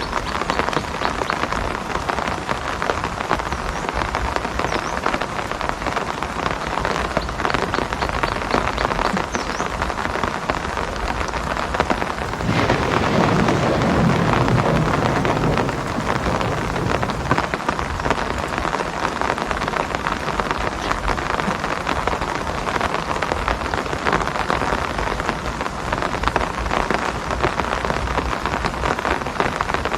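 Steady rain pattering down in a dense, even hiss. For a few seconds around the middle, a louder, deeper rumble rises under it and then fades.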